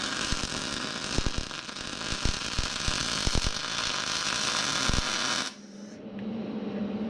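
MIG welding arc crackling and hissing steadily, with sharp pops, as weld is laid to build up a worn, sloppy bucket mount. It cuts off suddenly about five and a half seconds in, leaving a steady low hum.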